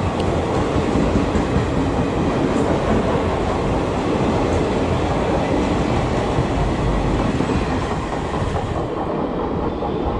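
Passenger train coaches rolling past along the platform, a steady rail noise of wheels on track that eases near the end as the last coach goes by.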